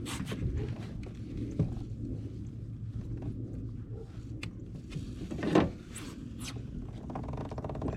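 Handling noise aboard a kayak: scrapes and a few sharp knocks over a steady low rumble, loudest about two-thirds of the way in, then a short rapid rattle near the end.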